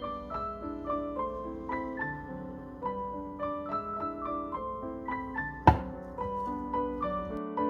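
Background piano music, a gentle sequence of notes, with one sharp knock about two-thirds of the way through.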